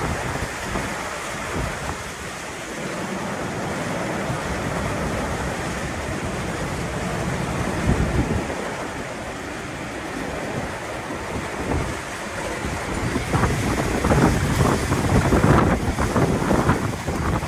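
Strong storm winds gusting and rushing, buffeting the microphone with irregular low rumbles that grow stronger in the last few seconds.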